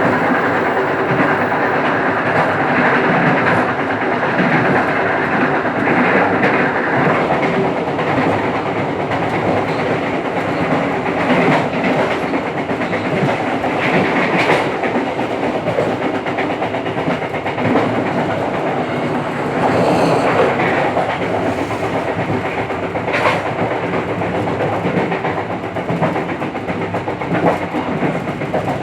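Local passenger train running along the track, heard from the rear of the train: a steady rumble of wheels on rail with occasional sharp clacks as the wheels cross rail joints.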